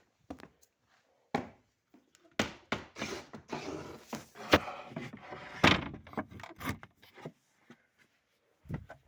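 A run of knocks, thuds and rubbing noises, as of things being handled and moved about, bunched in the middle with a single knock before and one near the end.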